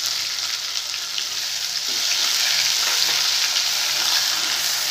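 Wet onion and nut paste sizzling in hot oil in a karai, a steady frying hiss, while a steel spatula stirs it through the pan.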